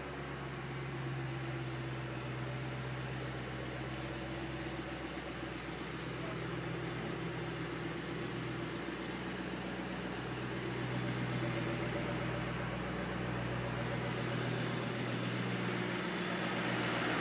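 Engine idling steadily with an even, low hum, growing a little louder after about ten seconds.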